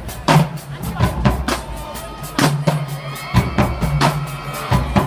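Marching band drumline playing a loud beat of bass drum and snare strokes under a steady low tone.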